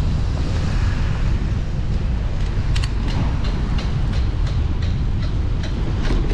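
Riding a bicycle, with wind buffeting the microphone as a steady low rumble. From about halfway, a run of even clicks comes in, about three a second.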